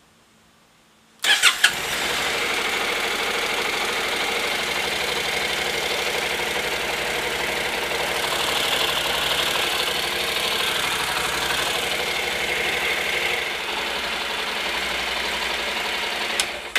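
Honda NC700X motorcycle's 670 cc parallel-twin engine starting about a second in, idling steadily, then shut off right at the end. It is run briefly after an oil change to circulate the fresh oil before the level is checked.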